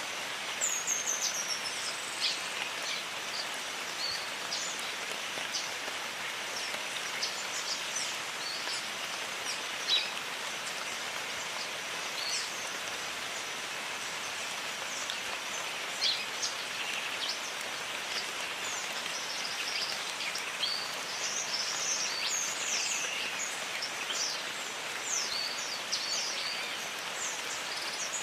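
Steady rain falling, with birds calling now and then in short high chirps and whistles, and two sharper taps.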